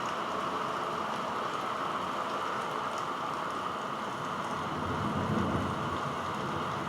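Steady heavy rain during a thunderstorm, with faint scattered drop ticks and a brief deeper swell about five seconds in.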